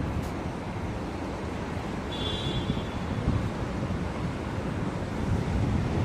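Wind buffeting the microphone over a steady outdoor rumble, with a brief faint high-pitched tone a little over two seconds in.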